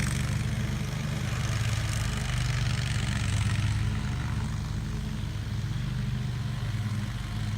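A vehicle engine idling steadily at a low, even pitch.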